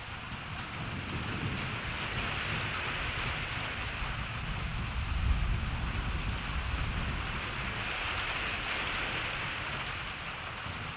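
Steady rain falling with a low roll of distant thunder that builds through the middle and peaks about five seconds in, then fades back under the rain.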